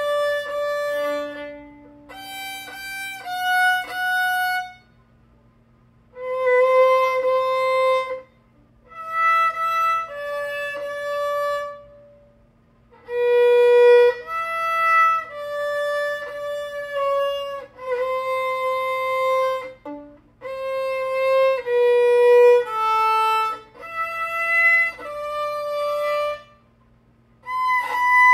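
A 3/4-size violin played slowly, one held bowed note after another in short phrases with brief pauses between them.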